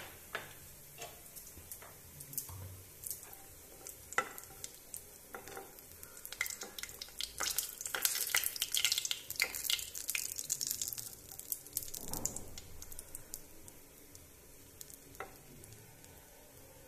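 Hot ghee sizzling and crackling in a nonstick kadhai as fried cashews are scooped out with a silicone spatula. The crackling is sparse at first and grows busier in the middle.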